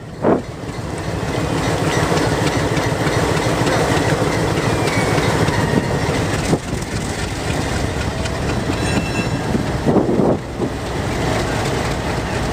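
A train rolling past on the rails, a steady run of wheel and car noise with a few louder knocks about ten seconds in.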